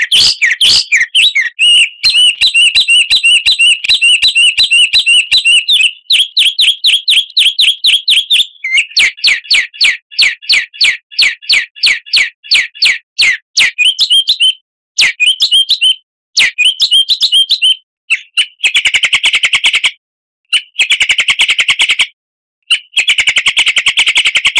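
Songbird song: fast runs of repeated chirping notes and trills that change pattern every few seconds, ending in three dense, buzzy trills with short pauses between them.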